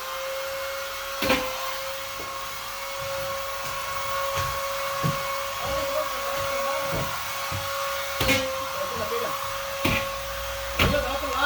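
Vacuum cleaner running with a steady whine over a rushing hiss, broken by a few sharp knocks.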